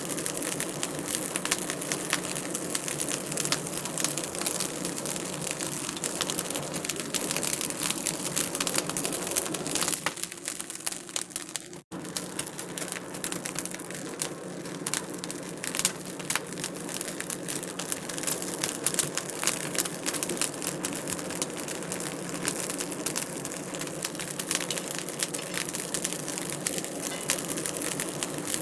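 Wood fire crackling in a fireplace: a steady run of small pops and snaps over a soft hiss, with a momentary break about twelve seconds in.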